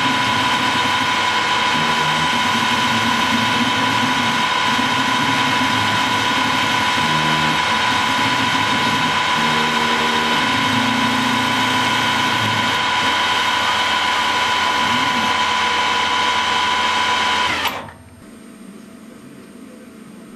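Harrison T280 CNC-converted lathe running, a steady machine drone with a high whine over shifting lower tones. It cuts off sharply about eighteen seconds in.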